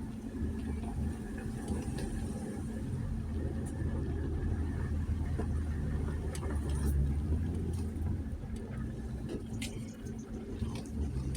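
Jeep Gladiator pickup's engine running at crawling speed, with a steady low rumble of the truck working over a rough dirt trail, heard from inside the cab. A few sharp short clicks stand out, more of them near the end.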